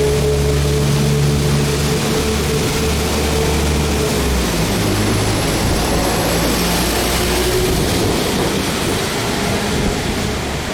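Diesel train running through the station, a steady engine drone over the rumble of the train, its engine note changing about four seconds in.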